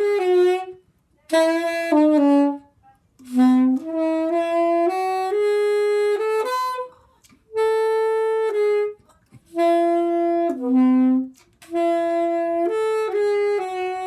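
Solo soprano saxophone playing a slow unaccompanied melody, one sustained note at a time, in short phrases with brief pauses for breath between them.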